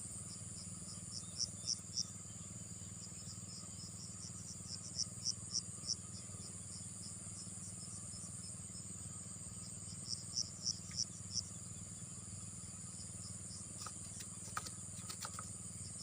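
Insects calling, crickets by the sound of it: a steady high-pitched trill, with groups of three to five louder chirps every few seconds, over a low steady hum. A few faint clicks near the end.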